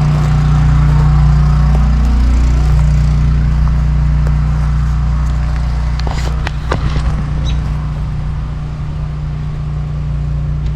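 A loud, steady low mechanical hum, like an engine running, holds through the clip. A few sharp clicks come about six to seven seconds in, and a bird gives two short high chirps soon after.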